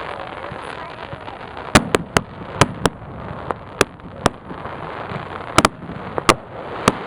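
Fireworks display: a run of about a dozen sharp cracks and bangs of bursting shells, starting about two seconds in and coming irregularly, some in quick pairs.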